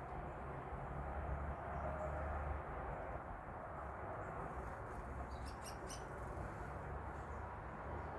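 A quick series of five or six high bird chip notes a little past halfway, over a steady low background rumble.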